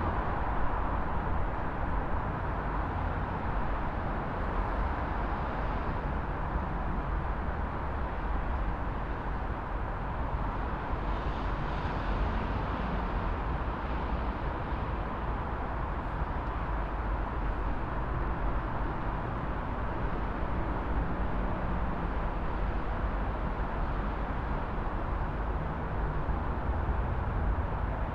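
Steady city traffic ambience: a continuous low rumble of passing vehicles with no break or single standout event.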